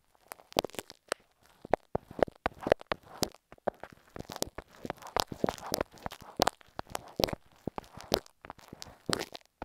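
Stick glue worked directly against an earphone microphone: irregular sticky crackles and sharp clicks, close to the mic.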